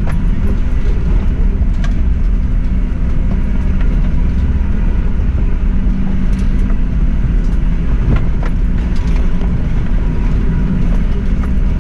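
Suzuki Jimny driving slowly along a rough unsurfaced lane: a steady low engine and road rumble, with a few light knocks from the vehicle over the ground.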